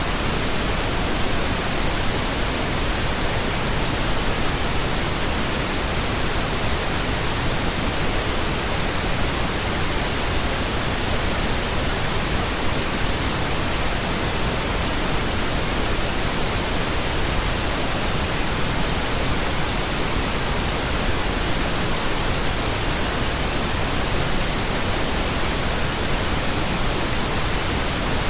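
Steady pink noise: an even, unchanging hiss spread across all pitches, with no changes or events.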